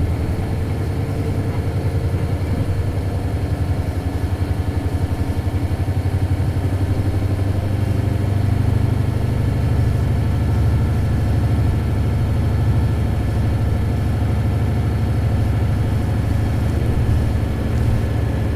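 Isuzu Cubic KC-LV280L bus's 8PE1-S V8 diesel engine running, heard from inside the cabin as a steady low drone with a throbbing pulse.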